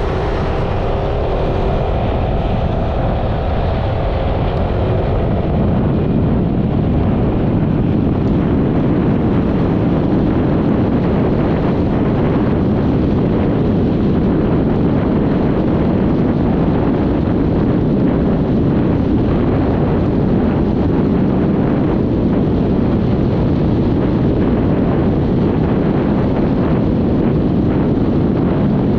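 Steady wind rush on the microphone of a Yamaha XMAX 300 scooter riding at speed, over its single-cylinder engine. The engine note shows through in the first few seconds. From about six seconds in, the wind noise grows louder and covers it.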